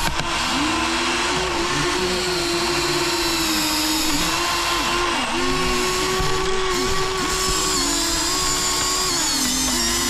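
Small electric gear motors of a radio-controlled toy excavator whining as it works, several overlapping whines shifting up and down in pitch as the motors speed up and slow down.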